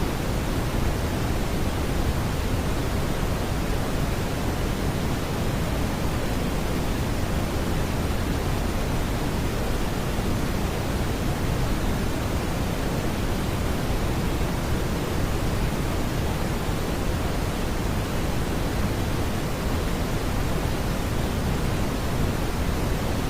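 Steady, unbroken smoothed brown noise: a deep, even rushing hiss weighted toward the low end, with no tones or beats.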